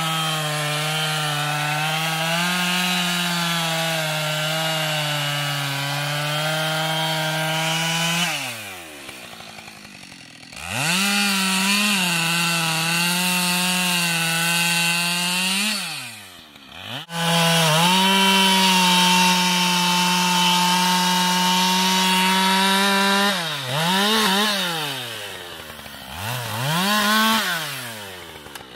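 Husqvarna 572 XP two-stroke chainsaw running at full throttle, cutting wood with its pitch sagging slightly under load. Three long full-throttle runs, each broken by the throttle being released and the engine dropping toward idle, then two short revs near the end.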